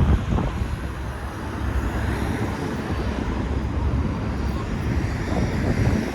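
Steady low engine rumble with wind buffeting the microphone.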